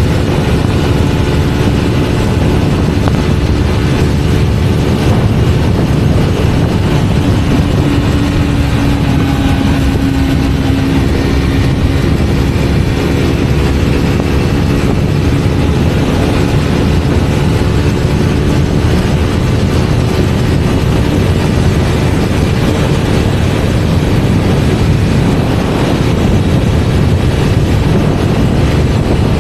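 Triumph Scrambler 400X's 398 cc single-cylinder engine running at a steady high speed under constant throttle, its engine note holding level over a dense low rushing rumble.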